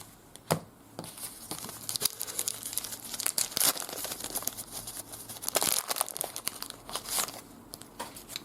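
A trading card pack's wrapper being torn open and crinkled by hand, with a run of sharp crackles.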